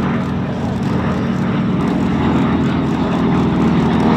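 Radial piston engine of a propeller-driven warbird flying past, a steady engine drone that grows a little louder toward the end.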